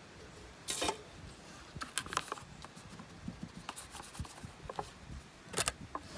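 Firewood being handled at a small wood fire: scattered sharp cracks and clicks, with two short scraping rustles, one about a second in and one near the end.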